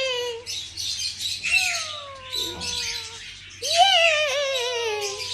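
Pet green parrot calling: a few long, drawn-out squawks, each jumping up in pitch and then sliding slowly down, the loudest starting about three and a half seconds in.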